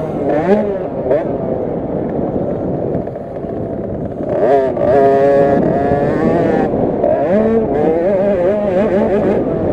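50cc two-stroke minibike engine racing, its pitch rising and falling quickly as the throttle is worked, with a sharp rev-up about four and a half seconds in.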